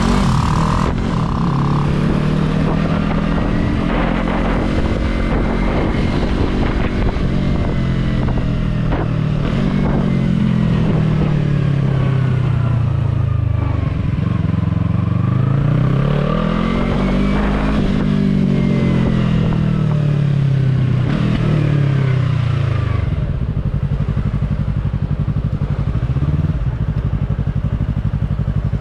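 Yamaha R3 parallel-twin motorcycle engine under way, its revs rising and falling several times through throttle and gear changes, with wind rushing over the microphone. About two-thirds of the way in the revs drop and settle into a steady low note.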